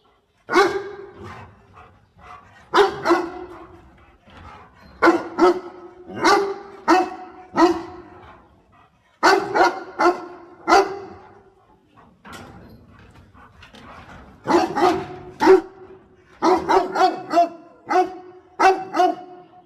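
A dog barking over and over in short, sharp barks, sometimes singly and sometimes in quick pairs, with a faster run of barks in the last few seconds.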